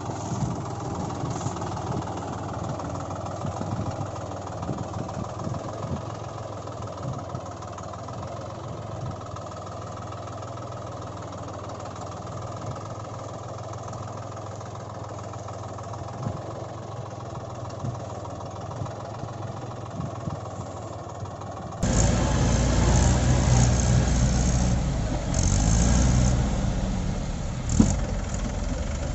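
A vehicle engine running steadily. About 22 seconds in, a louder, heavier engine sound cuts in abruptly.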